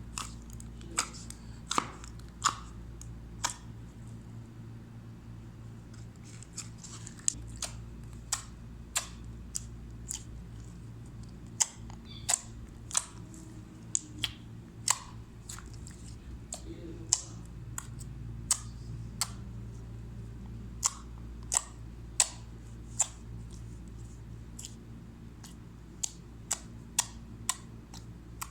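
Slime being pressed and worked by hand, giving sharp popping clicks about one or two a second, with a couple of short pauses, over a steady low hum.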